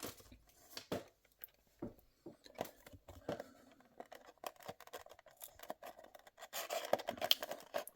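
Scattered small clicks, scrapes and rustles of packaging being handled and opened by hand, busier near the end.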